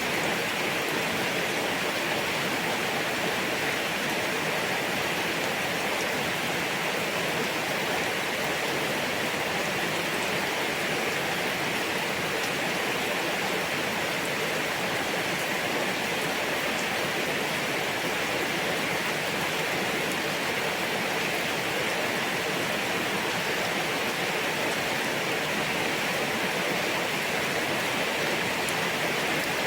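Steady rain falling, an even hiss that swells and eases slightly now and then.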